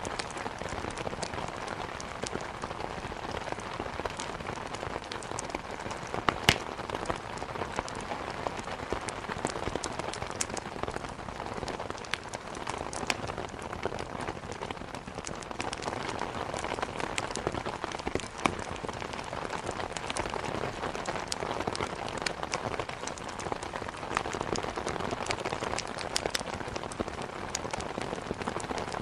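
Steady rain mixed with a crackling wood fire, with scattered sharp pops over the even hiss of the rain. The loudest pop comes about six and a half seconds in.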